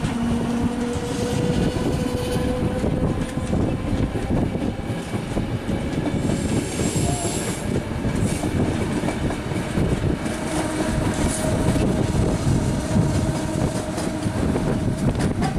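ÖBB class 4020 electric commuter train running past close by on the station tracks: steady rumble and rapid clatter of wheels over rail joints and points, with a steady electric hum and a brief high wheel squeal about seven seconds in.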